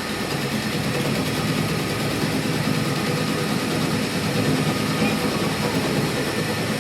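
A machine running steadily: a constant low hum under an even noisy wash.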